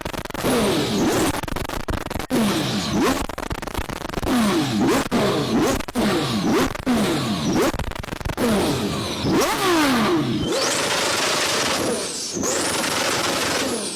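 A car engine being blipped hard again and again, each rev dropping quickly back down, with sharp cracks from the exhaust between the revs. After about ten seconds it changes to a steadier, held high-revving note.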